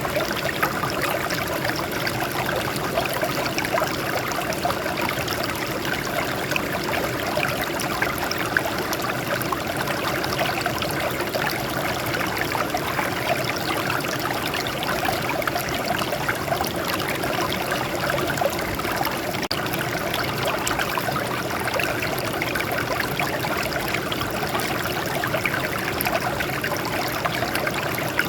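Water flowing and trickling over rocks, a steady splashing rush with many small splashes.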